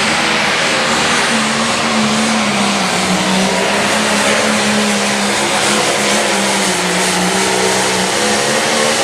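A light pro stock pulling tractor's turbocharged diesel engine running hard and loud at high revs during a pull, its pitch wavering slightly.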